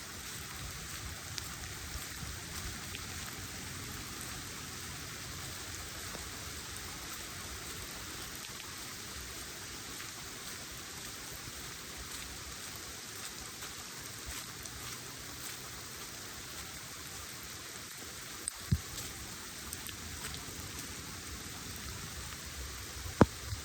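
Steady pouring rain. A few sharp taps stand out about eighteen seconds in and again just before the end.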